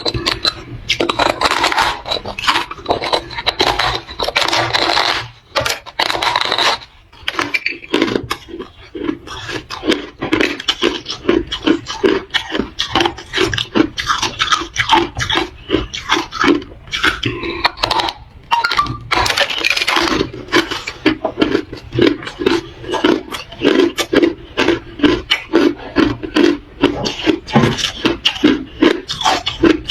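Close-miked chewing of hard, reshaped ice: loud, crunchy cracking as the ice breaks between the teeth, settling into a steady chewing rhythm of a few crunches a second.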